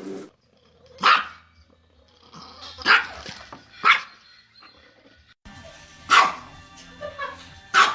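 A dog barking in single short barks, four in all, spaced unevenly with pauses between.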